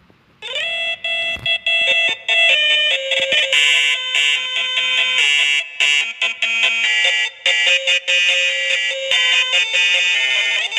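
A tune played in shrill, buzzy, beep-like electronic notes, stepping from pitch to pitch in a choppy rhythm with short breaks between notes, and no drums or bass.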